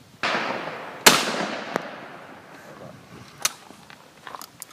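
Two Benelli shotgun shots about a second apart, each echoing away, the second sharper and louder; a few faint clicks follow.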